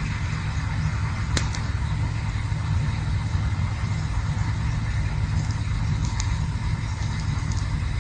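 Campfire burning: a steady low rumble with an occasional sharp crackle or pop, one clear snap about a second and a half in.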